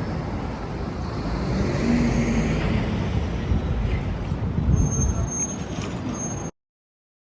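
City street traffic noise with heavy low rumble from wind buffeting the microphone. A thin high-pitched tone sounds briefly near the end, then all sound cuts off abruptly about six and a half seconds in.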